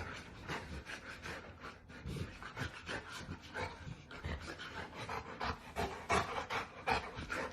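A dog panting in quick, even breaths, about two or three a second.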